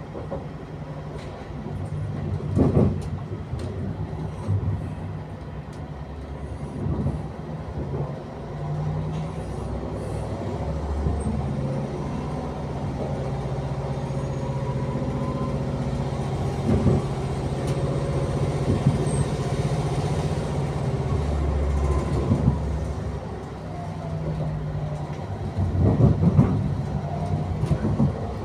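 Passenger train running, heard from inside the carriage: a steady rumble and hum, with a few short, louder knocks from the wheels over the track.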